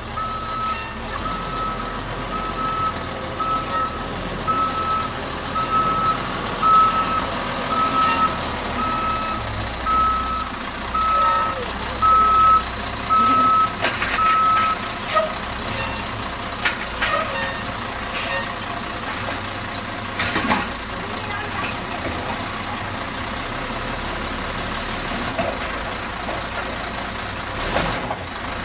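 McNeilus Autoreach garbage truck running, its reversing alarm beeping about once a second for the first fifteen seconds and then stopping. Later the engine carries on with a few sharp metallic knocks.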